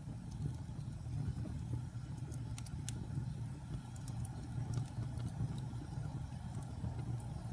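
Wood fire burning in a fireplace: a steady low rumble of the flames with a few faint, scattered crackles and pops.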